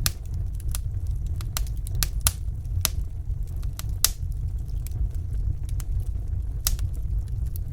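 Wood fire burning in a fireplace: irregular sharp crackles and pops, the loudest about four seconds in, over a steady low rumble.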